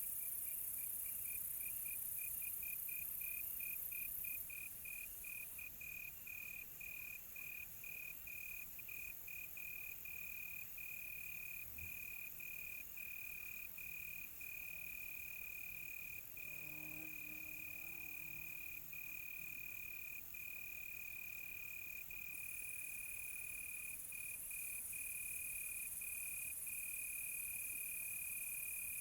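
Crickets trilling at one steady high pitch, the trill broken by short gaps that come quickly at first and then further apart, over a steady high hiss.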